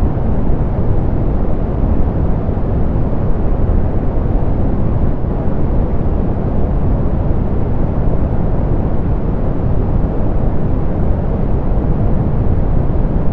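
Steady, softened pink noise: an even, unchanging hiss, heaviest in the low end and rolled off in the highs.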